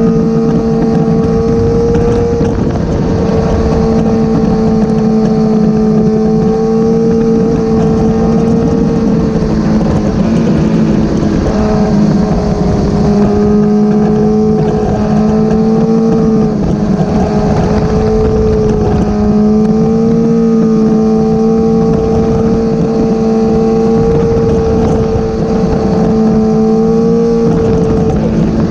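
Motorcycle engine running at a steady cruise, its pitch wavering slightly up and down as the throttle shifts, with wind buffeting the microphone.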